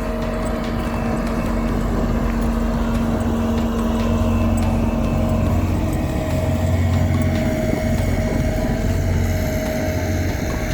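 Diesel engines of heavy road-paving machinery running steadily, with a low engine note that grows stronger about midway.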